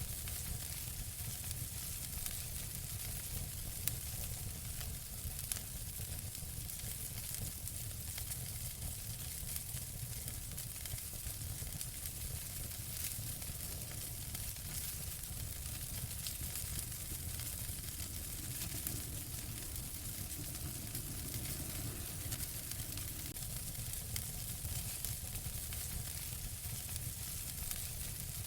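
Wood fire in a fireplace crackling steadily: a constant hiss with many scattered small pops and snaps, over a low rumble.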